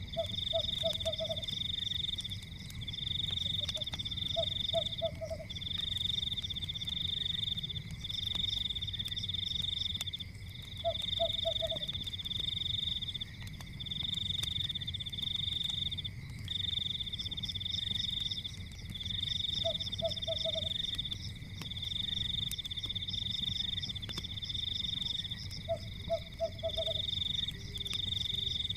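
Night-time frog chorus: a loud high trilling in long pulses of about a second and a half each with short gaps, and a lower croak of three or four quick pulses every few seconds, over a low steady rumble.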